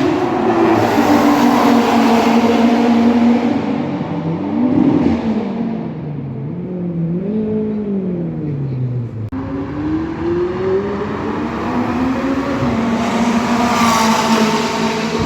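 Race car engine running hard, its pitch rising and falling with throttle and gear changes. About halfway through it winds down steadily for a few seconds, then cuts off abruptly and climbs again.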